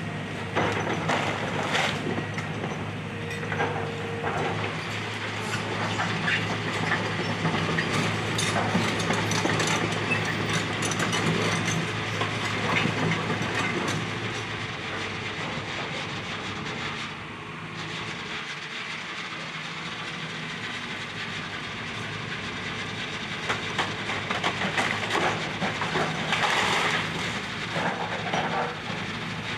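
Hydraulic excavator's diesel engine running steadily while it tears down a house: wood and debris cracking, crunching and clattering over the engine hum, busiest in the first half and again near the end, with a lull around the middle.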